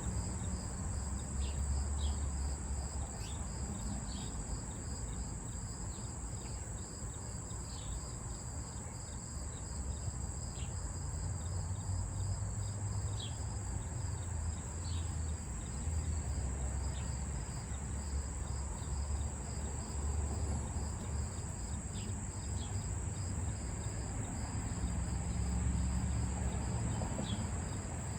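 Crickets and other night insects chorusing steadily: one continuous high-pitched trill together with a fast, evenly pulsing chirping. Short, high bird chirps are scattered through it, over a low rumble.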